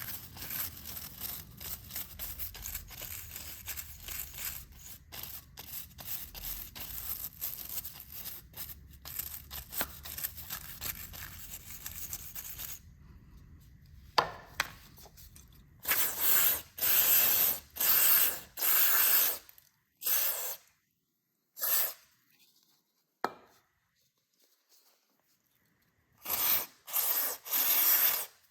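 Stiff-bristled brush scrubbing grime off a motorcycle's front sprocket and its housing in quick rough strokes. About halfway through, the scrubbing stops, and aerosol chain cleaner is sprayed in a series of short hissing bursts: about five in a row, then three more near the end.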